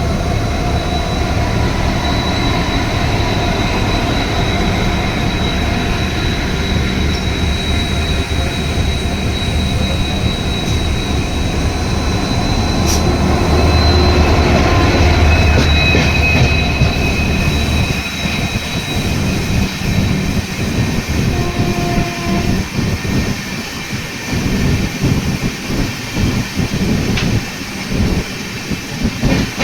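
Indian Railways passenger train (the 12840 Howrah Mail) running on the rails: a steady heavy rumble with a thin high wheel squeal. From about two-thirds of the way through, the wheels clatter over rail joints in quick repeated beats.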